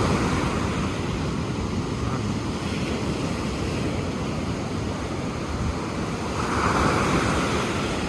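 Ocean surf washing in steadily, with wind buffeting the microphone; a wave swells louder near the end.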